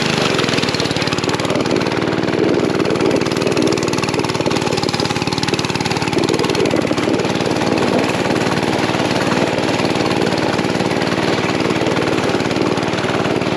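Mini bike's small engine running steadily, its pitch holding even throughout.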